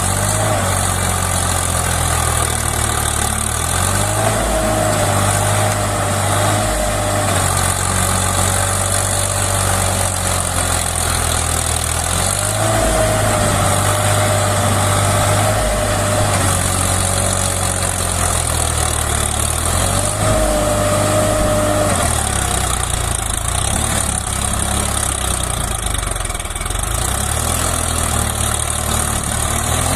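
Tractor engine running steadily. Three times a higher whine rises and holds for a few seconds.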